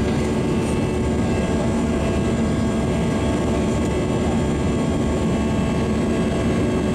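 Airbus A320 cabin noise: jet engines and rushing air making a steady, even roar with a few constant hum tones in it.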